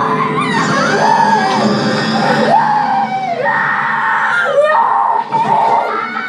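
Film soundtrack music with people screaming over it; the screams rise and fall in pitch in long wavering cries.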